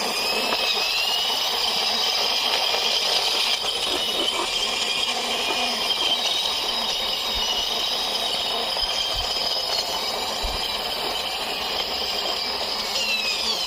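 Toy police helicopter whirring as it is pushed along by hand. A high whine rises as it gets going, holds steady, and falls away near the end, with a light rattle.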